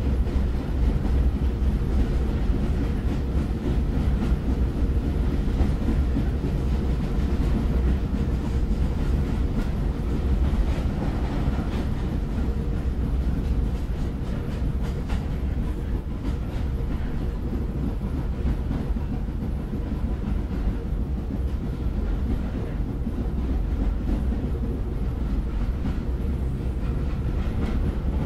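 Moving train: a steady low rumble, with faint clatter of the wheels on the rails.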